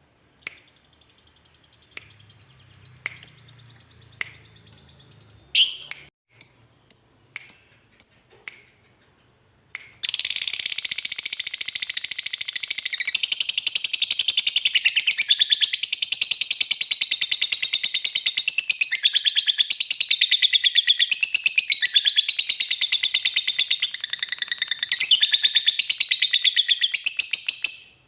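Lovebird calling: a few scattered sharp, high chirps, then about ten seconds in a long, fast, unbroken chattering trill, the 'ngekek' call, that goes on for about eighteen seconds and cuts off suddenly.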